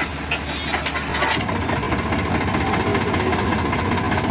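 Tractor's diesel engine running steadily, with a single sharp knock a little over a second in.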